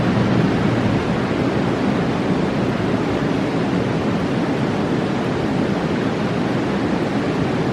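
Roaring mountain river: a loud, steady rush of water.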